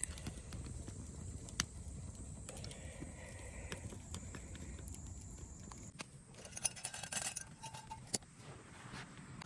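Light metallic clinking and handling knocks, with a busier clatter about seven seconds in, over a steady low rumble that drops away about six seconds in.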